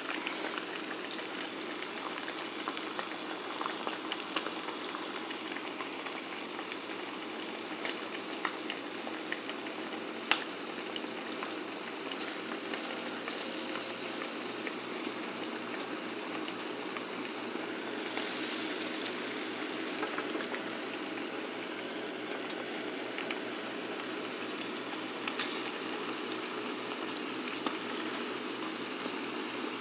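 Floured pieces of hog maw frying in hot grease in a skillet: a steady sizzle and crackle, with one sharp pop about ten seconds in.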